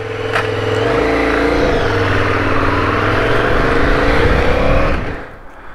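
KTM 990 Super Duke's V-twin engine accelerating hard, with wind rushing over the helmet as speed builds; the engine note drops away near the end.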